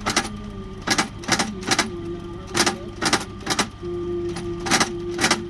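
Cobbler's hammer striking a shoe on a last: a string of sharp knocks at an uneven pace, roughly two a second. A held, chant-like tone runs underneath.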